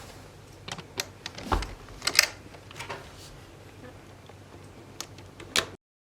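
Irregular sharp clicks and taps over a low, steady background noise, cutting off abruptly near the end.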